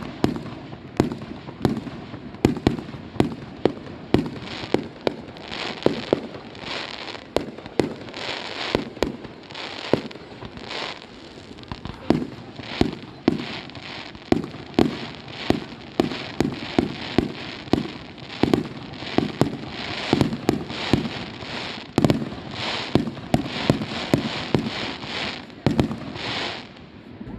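Fireworks display: a rapid run of aerial shell bursts, about two bangs a second, with crackling between them, easing off just before the end.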